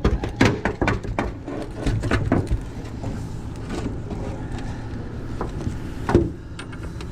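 Knocks and clatter in a small boat: a quick run of sharp knocks and clicks over the first couple of seconds, then a steady low rumble, and a single louder knock about six seconds in.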